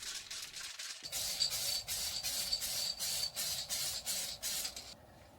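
Clear lacquer being applied to a wooden roof: a run of short, hissing strokes, about three a second, starting about a second in and stopping near the end.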